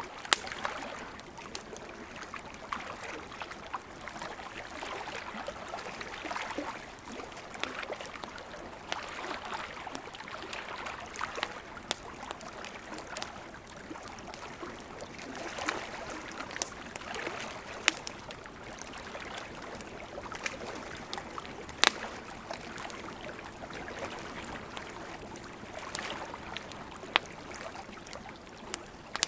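Wood campfire crackling, with scattered sharp pops, the loudest a few times through. Underneath runs a steady rushing wash that swells and eases every few seconds, like sea waves.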